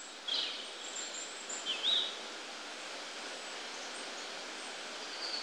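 Outdoor ambience: a steady soft hiss with a few bird chirps over it, one just after the start, a short warbling call near two seconds in, and another near the end.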